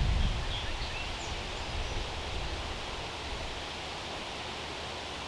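Outdoor ambience: a steady hiss of background noise, with wind buffeting the microphone at the very start and a few faint bird chirps about a second in.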